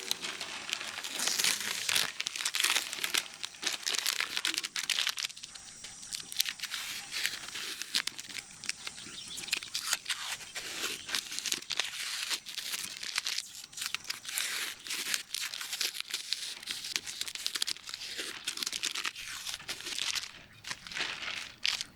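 Masking tape and paper being peeled off freshly painted steel wheels and crumpled up: a continuous run of irregular ripping and crinkling.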